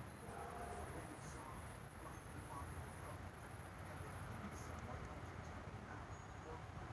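Faint night ambience with insects chirping steadily in a high, even band.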